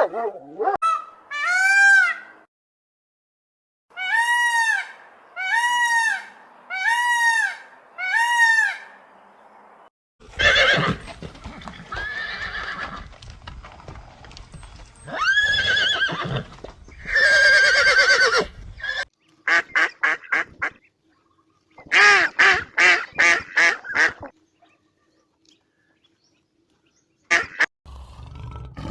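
A string of different animal calls, one after another: first a run of evenly spaced arching calls, then louder, rougher calls, then quick runs of short calls.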